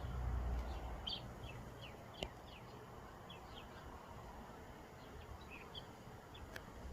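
A scatter of short, high chirps that slide downward, over a faint low rumble that fades during the first second or two, with two sharp ticks.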